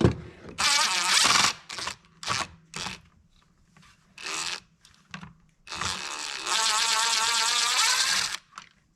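A cordless power driver running in two bursts, a short one about a second long near the start and a longer one of about three seconds near the end, backing out screws to remove a part of a Husqvarna 345 chainsaw. A few light knocks and clicks of parts being handled come in between.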